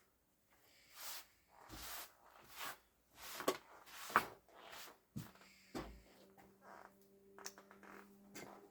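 Hands working on a robotic mower's wheel motor: a run of short scraping and rubbing noises with a few sharp knocks. A steady low hum sets in about five seconds in.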